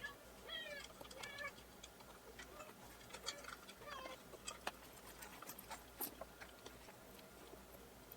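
Two short, high animal calls in the first second and a half, then scattered faint clicks and taps.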